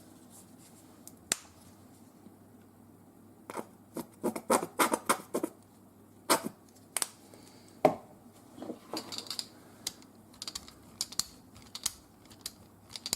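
Irregular light clicks and taps of a plastic paint container being handled on a craft table, with a busier cluster of clicks a few seconds in.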